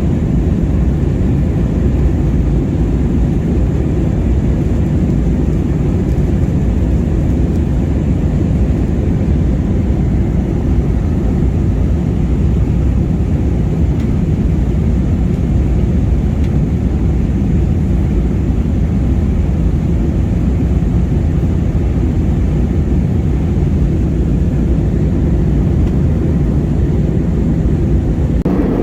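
Steady cabin noise of an airliner in flight: engine drone and rushing air, mostly low in pitch, with a faint steady hum above it.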